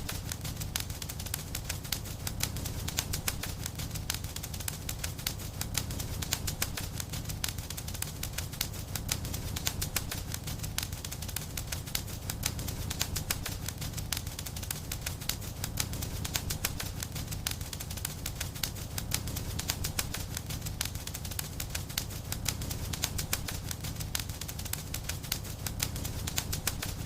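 Wood fire crackling steadily: many small snaps each second over a constant low rumble of flames.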